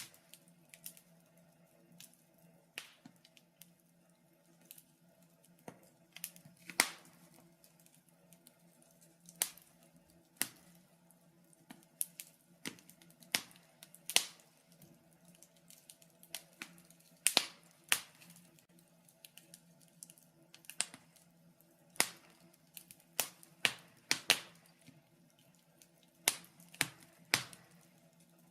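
Wood fire in a fireplace crackling, with irregular sharp pops and snaps, some louder ones standing out every few seconds.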